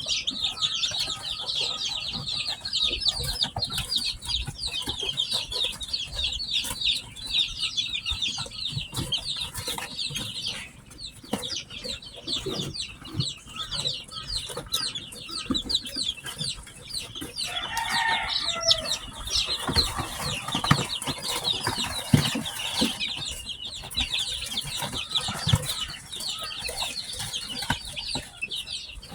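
A brood of newly hatched chicks peeping continuously, many rapid high-pitched peeps overlapping. The peeping thins for a moment about ten seconds in, and a few low knocks come about two-thirds of the way through.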